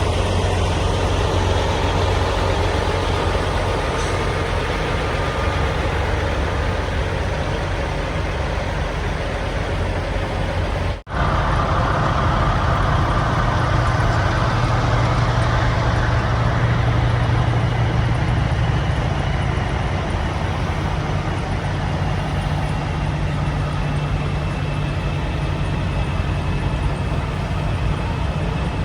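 Semi truck's diesel engine running steadily under a low drone, with a brief cut about eleven seconds in; after it the engine note sits a little higher and climbs again later on.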